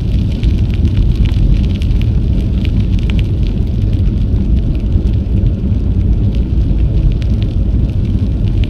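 Wind buffeting an action camera's microphone on a moving bicycle: a loud, steady low rumble with scattered small crackles.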